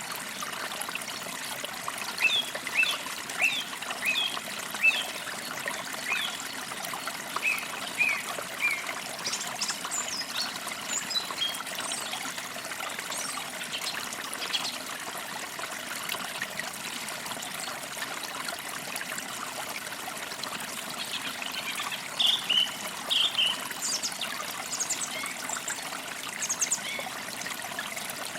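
A creek trickling and babbling steadily, with birds chirping over it in short runs of quick, high chirps, busiest a couple of seconds in and again about three-quarters of the way through.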